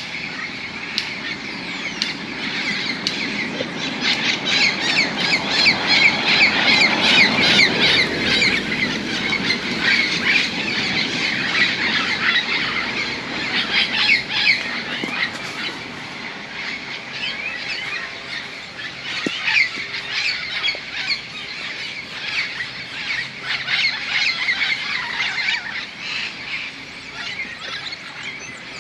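A large flock of parrots squawking together as they settle in to roost: a dense, noisy chorus of many harsh overlapping calls. It is loudest in the first half and thins out somewhat toward the end.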